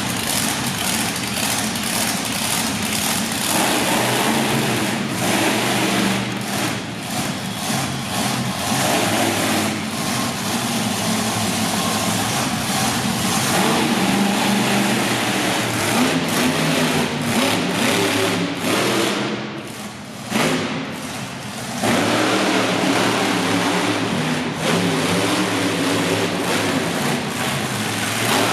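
Monster truck engine running hard and revving, its pitch climbing and falling, easing off briefly about twenty seconds in before picking up again.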